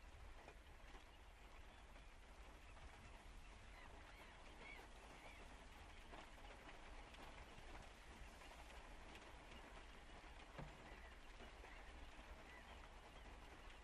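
Near silence: a faint, steady hiss of light rain, with a few faint high chirps scattered through it.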